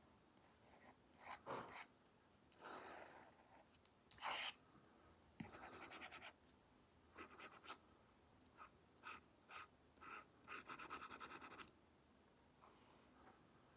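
Apple Pencil Pro tip scratching across an iPad screen fitted with a paper-like matte film, in a series of short brush strokes. One firmer stroke comes about four seconds in, and a quick run of rapid back-and-forth strokes follows near the end.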